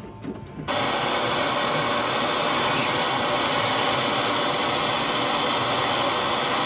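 A small electric motor running steadily at an even pitch, switching on abruptly under a second in.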